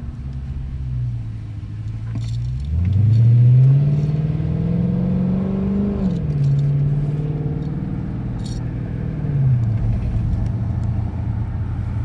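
2013 Dodge Charger R/T's V8 engine pulling under hard acceleration, heard from inside the car. It cruises steadily, then about three seconds in revs climb for around three seconds and drop sharply as it shifts up. It holds there, then settles lower again near the end.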